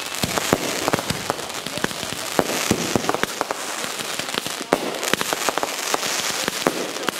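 Aerial fireworks going off: a steady run of irregular sharp bangs over continuous crackling.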